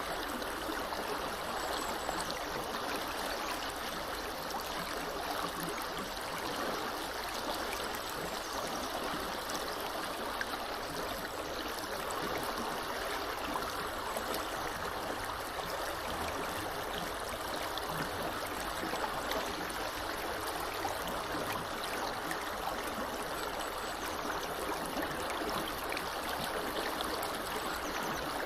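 Small river flowing steadily over its bed: a continuous rushing and burbling of water.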